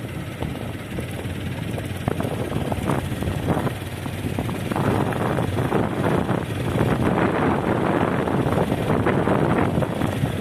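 Wind buffeting the microphone from a moving road vehicle, over a steady low rumble of road and engine noise.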